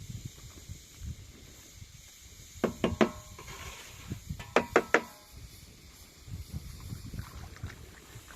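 Two quick runs of three sharp knocks, about two seconds apart, each strike leaving a brief ringing, over a low rumble.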